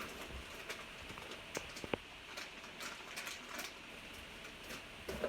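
Rummaging through a bin of small spare RC-car parts: scattered light clicks and rattles of screws and plastic pieces, with soft rustles of small parts bags.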